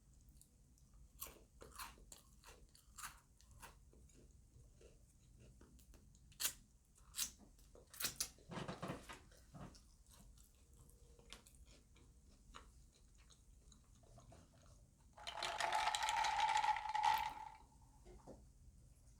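Close-miked chewing and crunching of food, with scattered sharp crunches over the first half. About fifteen seconds in, a louder noisy sound lasts about two seconds.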